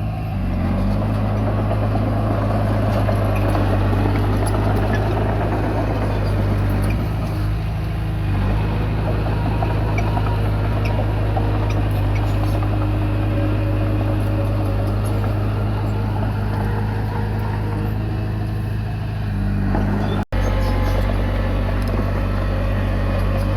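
Komatsu D20P bulldozer's diesel engine running steadily with a deep hum, clatter and rushing noise over it. The sound drops out for an instant about twenty seconds in.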